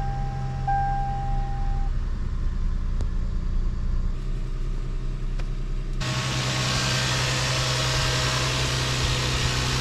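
Lexus GS300's 3.0-litre inline-six running steadily at idle after being started. An electronic beeping tone sounds over it in the first two seconds, and a steady hiss joins about six seconds in.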